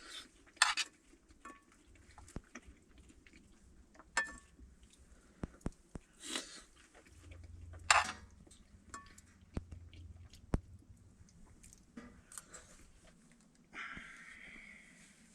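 Sporadic sharp clicks and knocks, a few of them ringing briefly like light metal clinks, with a short scraping rustle near the end.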